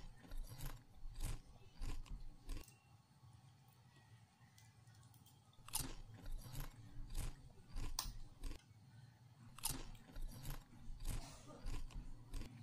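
A person chewing a soft chocolate rice cake (chocolate moron) close to the microphone: wet chewing with a series of sharp mouth clicks, broken by a quieter pause of about three seconds near the start.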